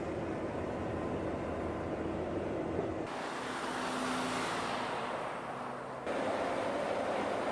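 Vehicle running noise in spliced segments: a low rumble with steady engine-like tones, then an abrupt change about three seconds in to a broad hiss, and another abrupt change near six seconds to a denser mid-pitched noise.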